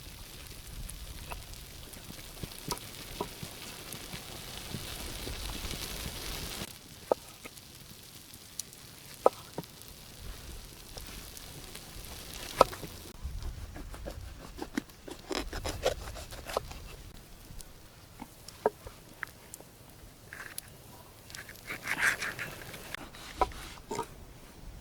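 Campsite cooking: a steady hiss that cuts off about six and a half seconds in, then scattered sharp clicks, taps and light scrapes.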